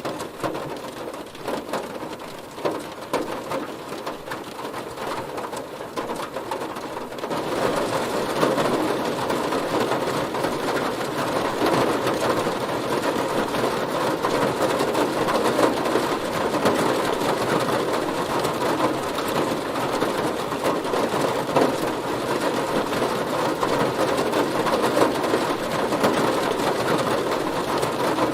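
Heavy rain falling on a car's roof and body, a dense steady patter of drops. About seven seconds in the rain grows heavier and louder and stays so.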